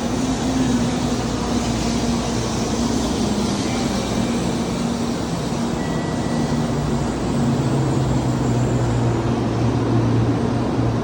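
Steady running noise of a Shinkansen train, with a low hum that steps down in pitch about seven seconds in.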